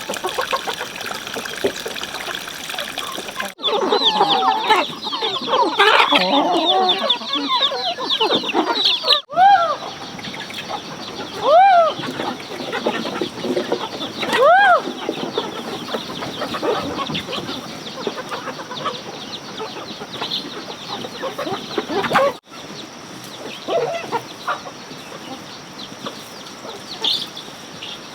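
Chickens clucking, with a stretch of dense high chirping and then three louder calls that rise and fall. The sound breaks off abruptly a few times.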